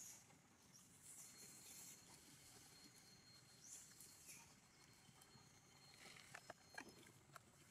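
Near silence: faint outdoor background with a few small clicks or rustles near the end.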